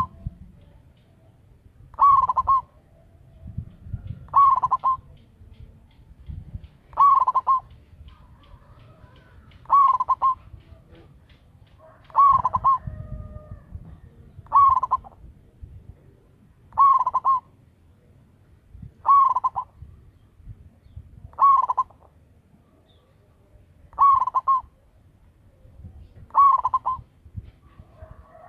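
Zebra dove (perkutut) cooing: a short trilled coo phrase repeated steadily about every two and a half seconds, eleven times.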